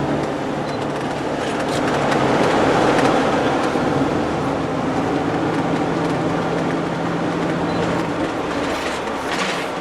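Steady road and engine noise heard inside a moving vehicle: an even rush of tyre and wind noise over a low, constant engine hum, swelling slightly a few seconds in.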